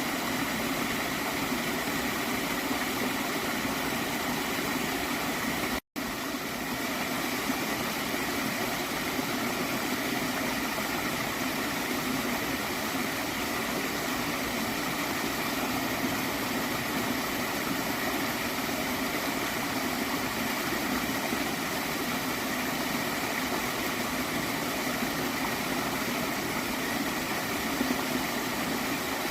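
Steady flowing, gurgling stream water, with a split-second dropout to silence about six seconds in.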